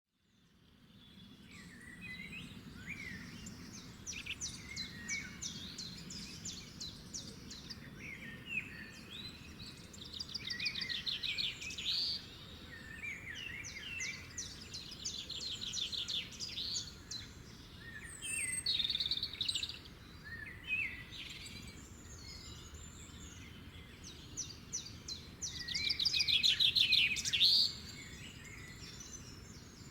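Songbirds singing, with rapid trilled phrases and short chirps in bursts, the loudest trill near the end, over a faint low steady background rumble. The sound fades in at the start.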